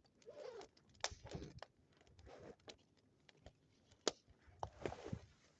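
Wood bonfire crackling, with scattered sharp pops, two of them loud, about a second in and about four seconds in, over soft rustling.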